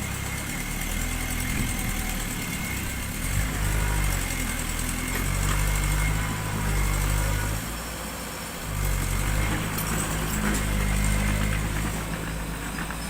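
Diesel engine of heavy construction machinery running and working under varying load, its pitch and level rising and falling. It drops back briefly about eight seconds in, then picks up again.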